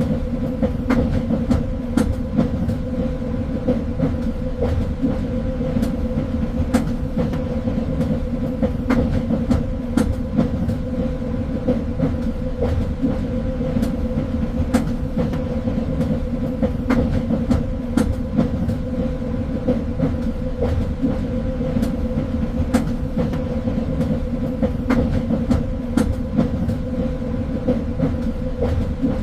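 Train running steadily along the track, heard from on board: a constant low rumble with a steady hum, overlaid by frequent irregular sharp clicks from the wheels on the rails.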